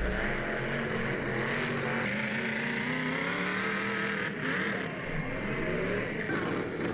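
Demolition derby cars' engines revving hard, their pitch rising and falling repeatedly as the drivers work the throttle.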